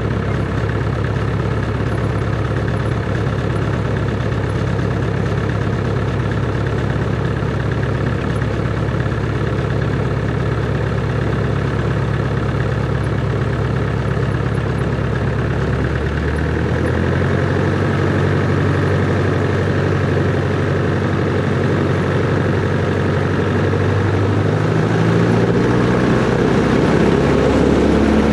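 Cessna 140's four-cylinder air-cooled engine and propeller running at low power, its speed stepping up about two-thirds of the way through and again near the end.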